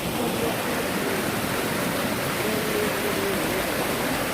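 Cheonjiyeon waterfall pouring into its pool: a steady, unbroken rush of falling water.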